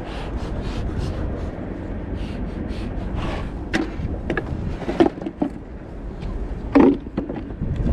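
Wind buffeting the microphone as a steady low rumble, with several sharp knocks and clatters, the loudest about five seconds in and again near the end.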